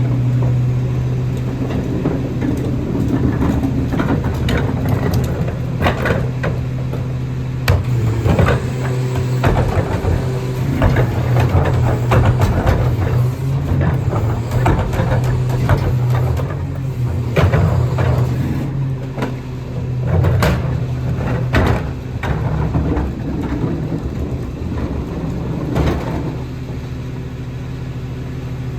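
Autocar ACX rear-loader garbage truck running steadily with a steady low engine hum, while repeated sharp clanks and bangs come from recycling being tipped into its Pac-Tech hopper; the knocks are densest through the middle.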